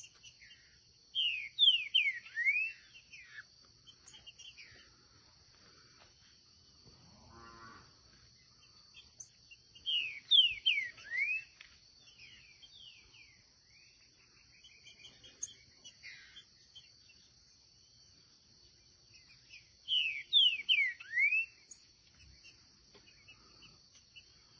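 Green-winged saltator (trinca-ferro) singing: three short phrases of loud, quickly descending whistled notes, coming about every nine to ten seconds.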